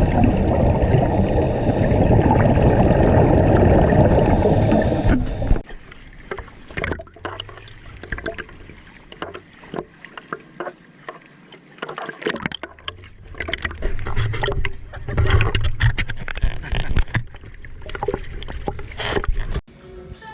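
Water sloshing and splashing, loud and close for the first five seconds or so, then quieter with scattered small splashes and knocks.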